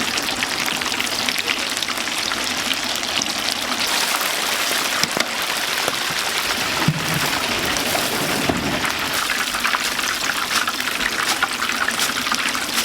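Deep-fryer oil sizzling and crackling steadily as food fries in it, with a few brief knocks around the middle.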